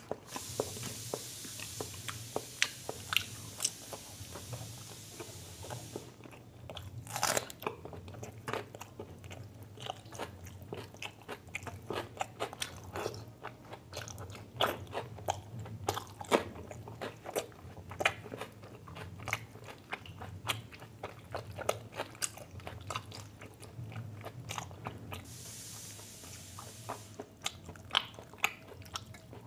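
Close-miked eating: a person chewing and biting food, with a dense, irregular run of wet mouth clicks and crunches. A high hiss sits under it for the first several seconds and again briefly near the end.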